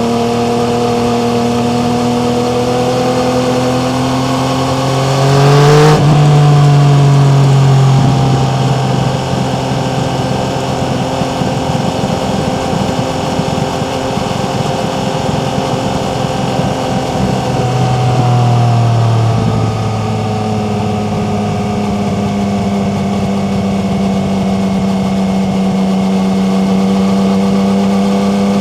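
Yamaha MT-09's three-cylinder engine pulling hard under way, its pitch rising for a few seconds and then dropping sharply at an upshift about six seconds in. It then cruises at a steady pitch, with another drop in revs shortly before the end.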